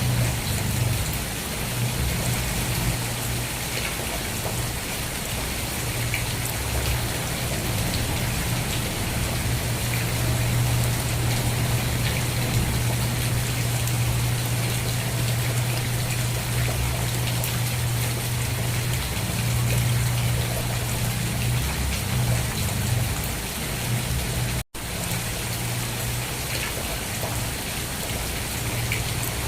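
Steady heavy rain, an even hiss of drops with a low rumble underneath. The sound cuts out for a split second about five seconds before the end, then carries on unchanged.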